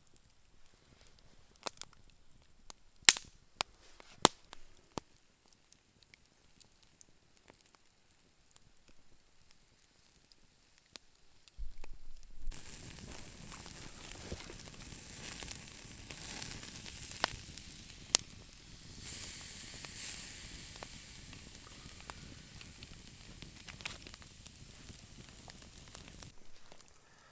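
Campfire crackling with a few sharp pops, then, from about halfway through, a steak sizzling over the fire, steady until it stops shortly before the end.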